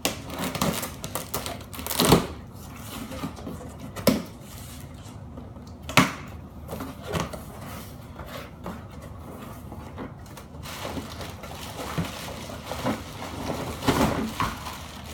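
Cardboard box being opened and unpacked by hand: scattered sharp knocks and clacks, the loudest about two, four and six seconds in, between stretches of lighter rustling and handling.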